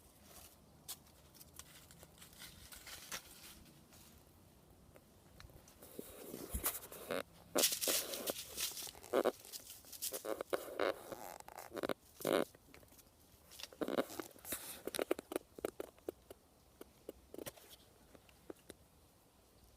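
Puppy moving about and playing: irregular rustling, scratching and crunching noises that start about six seconds in and come in quick, uneven bursts.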